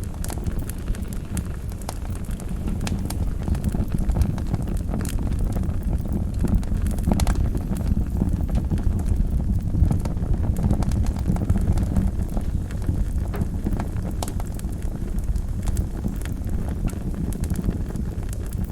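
Wood fire burning in a fireplace, with a steady low rumble of flame and frequent sharp crackles and pops scattered throughout.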